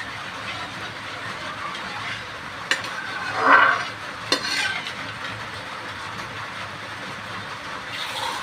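Curry masala frying with a steady sizzle in a pan, while a spoon stirs it: a louder scrape across the pan about three and a half seconds in, with a sharp tap of the spoon on the pan just before and just after.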